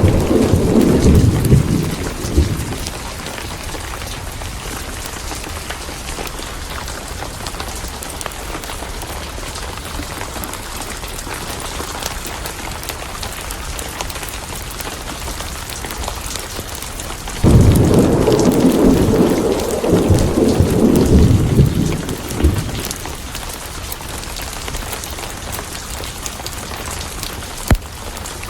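Steady heavy rain with rolling thunder: one rumble dies away in the first two seconds, and a second long rumble starts suddenly about two-thirds of the way in. A single sharp crack comes near the end.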